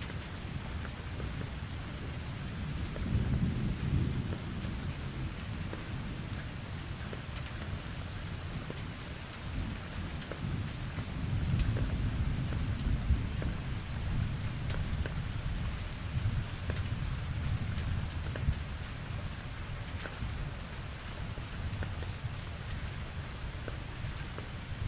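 Thunderstorm: steady heavy rain with scattered drip ticks, under low rolling thunder that swells a few seconds in and again near the middle.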